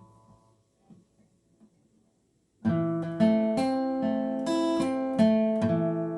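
Acoustic guitar playing a picked arpeggio in waltz time, single notes plucked one after another and left ringing, starting about two and a half seconds in after a faint fading tone and a few soft clicks.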